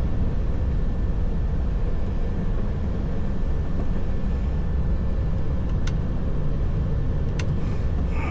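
Steady low rumble of a heavy truck's diesel engine heard inside the cab, with two faint short clicks near the end.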